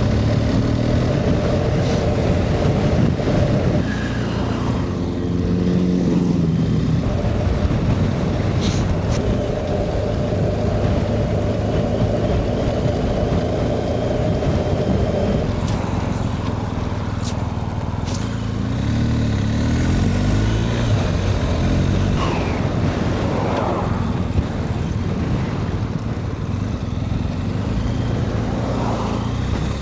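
BMW R 1250 GS's boxer-twin engine running under way, its pitch stepping up and down a few times as the rider changes speed and gear, over steady road noise.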